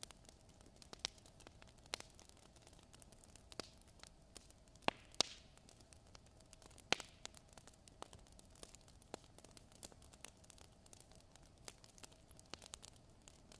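Fire crackling: scattered sharp pops with many faint ticks between them, the loudest pops about five and seven seconds in, over a faint steady hum.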